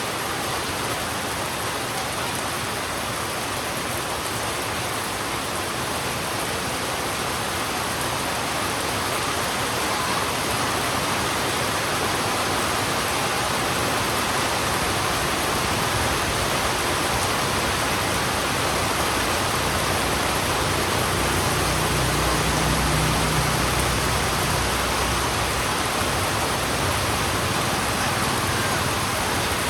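Heavy rain falling steadily on a road, an even hiss. From about two-thirds of the way through, a low rumble swells in for several seconds and then fades.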